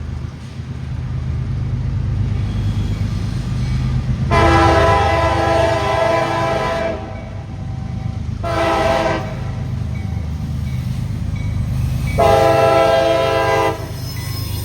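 Freight train locomotive air horn sounding three blasts (long, short, long) over the steady rumble of the approaching train: the closing part of a grade-crossing warning.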